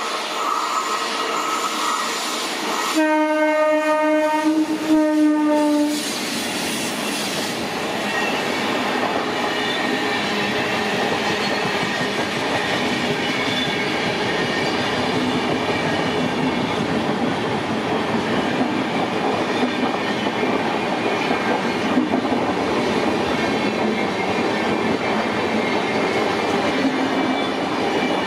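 WAP7 electric locomotive hauling a double-decker express, sounding a single horn blast of about three seconds a few seconds in. The coaches then roll past with steady wheel noise and clickety-clack over the rail joints.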